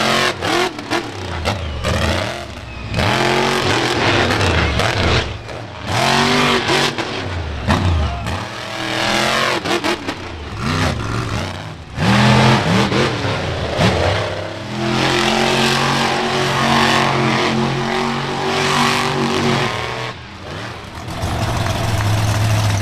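Monster truck engine revving hard again and again, its pitch climbing and falling with each blip of the throttle. A loud surge comes about halfway through, then the engine holds a steadier high pitch for several seconds before dropping back.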